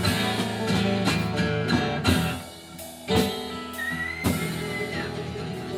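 Live band with electric guitar and drum kit playing the closing bars of a country-rock song: strummed chords with drum hits, a short drop a little after two seconds, then accented final hits about three and four seconds in, left ringing.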